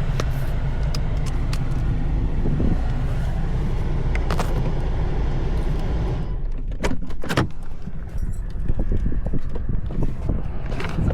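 Car cabin noise while driving: a steady low rumble of road and engine. About six seconds in it turns quieter, and a few sharp clicks follow.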